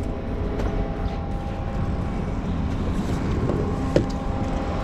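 Boat's engine running at idle as a steady low rumble, with wind and water noise; a single sharp knock sounds about four seconds in.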